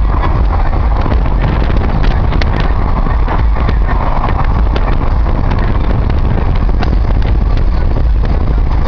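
Steady, loud motor-vehicle engine noise with wind rumbling on the microphone.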